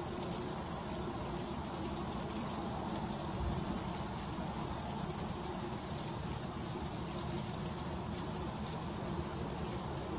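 Freezing rain falling in an ice storm: a steady, even hiss of fine icy drops hitting surfaces, with faint small ticks through it.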